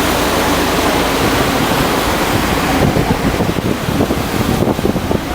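Wind buffeting the microphone over the steady rush of water around a sightseeing boat under way; the buffeting gets stronger from about three seconds in.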